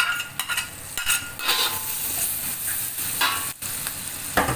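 Metal spatula scraping chopped chilli and garlic off a ceramic plate into a steel wok, then the chilli and garlic sizzling in hot butter with curry leaves while the spatula stirs and scrapes the wok twice.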